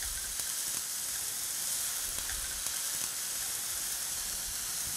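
Diced ham and chopped onion frying in a little oil in an electric skillet: a steady sizzle.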